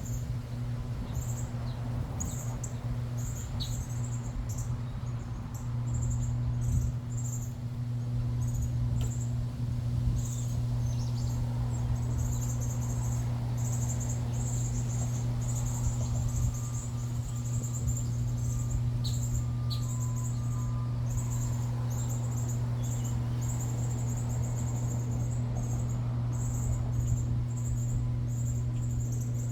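Small backyard birds chirping in quick, irregular runs of high-pitched notes, over a steady low hum that grows louder about six seconds in.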